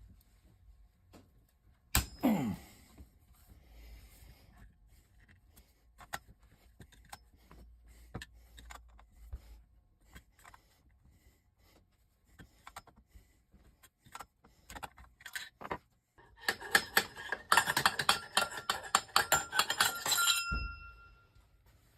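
Metal objects being handled: scattered light clicks and taps, a sharp knock about two seconds in, then several seconds of dense metallic clinking and rattling near the end that leaves a brief ringing tone as it stops.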